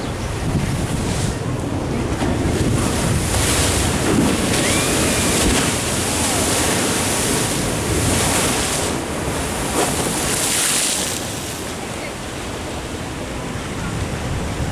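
Ocean waves washing in against a sea wall, with two surges of hiss about three and eight seconds in. Wind buffets the microphone throughout.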